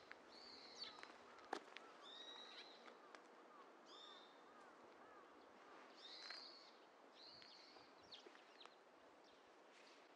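Small birds chirping: many short, high chirps and quick pitch sweeps, repeated throughout, with a faint quick run of lower notes about two seconds in. A single sharp click about a second and a half in.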